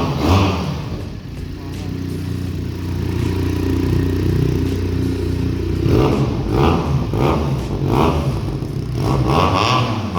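Benelli TNT 300 parallel-twin through an IXIL X60 aftermarket exhaust, freshly started: one rev at the start, then steady idling, then a quick series of throttle blips from about six seconds in.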